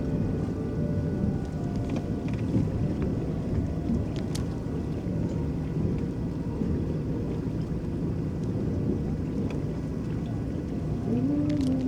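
Electric boat moving across a lake: a steady low rumble of water washing along the hull and the boat running, with scattered small water ticks. Near the end a wavering pitched sound begins.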